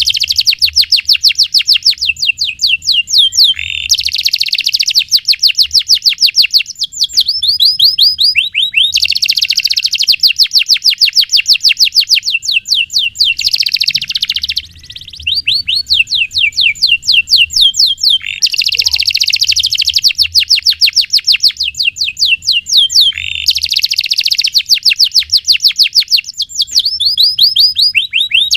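Domestic canary in full song: long rolling trills of fast repeated notes, one phrase after another, with brief pauses between.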